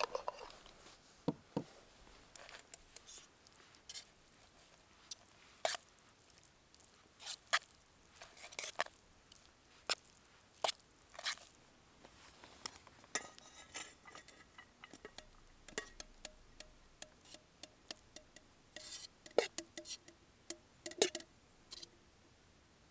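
Scattered light clicks, knocks and clinks of small objects being handled, irregular and well spaced. A few near the end ring briefly, like metal or glass.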